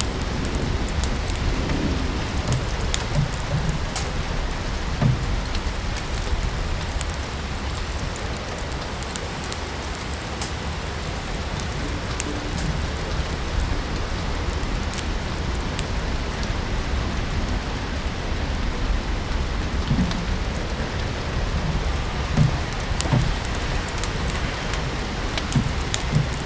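Steady rain mixed with a wood fire crackling: an even hiss with scattered sharp pops throughout.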